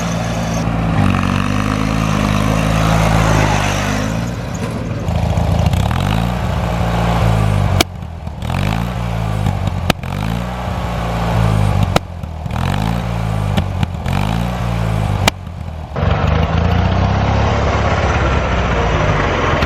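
A small vehicle engine being revved over and over, its pitch rising and falling again every second or two, in several short clips cut together.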